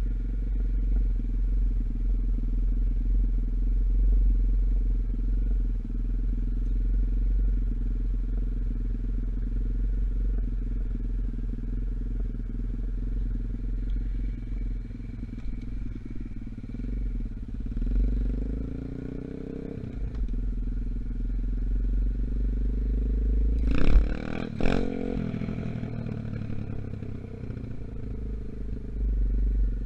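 125cc dirt bike engine running at a steady speed, its pitch sweeping down and back up a little past halfway. A couple of sharp knocks or clatter come about two-thirds of the way in.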